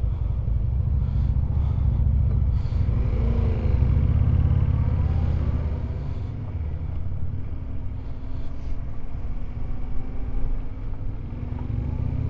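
Yamaha Ténéré 700 parallel-twin engine running as the motorcycle rides off, under a heavy low rumble of wind and road noise; the engine pitch rises as it accelerates about 3 seconds in and again near the end.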